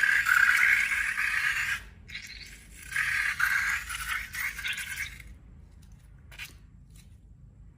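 Scraping and rattling of small hard objects in two bursts of about two seconds each, followed by a couple of faint clicks.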